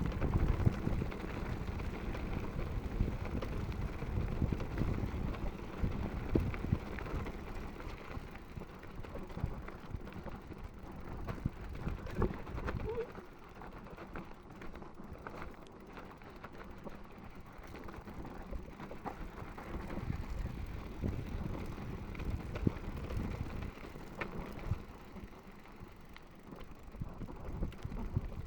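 Mountain bike rattling over a rough trail descent: a low rumble full of sharp knocks and clatters from the bike. It goes quieter for a stretch around the middle and again shortly before the end.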